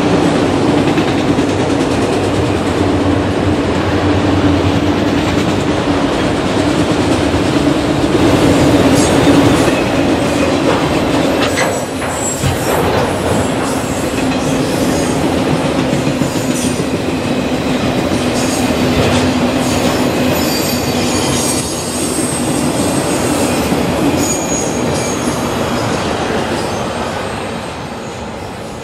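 Freight train of autorack cars rolling past on steel rails: a steady rumble of wheels and car bodies, with thin high wheel squeals through the middle. It fades over the last few seconds as the end of the train pulls away.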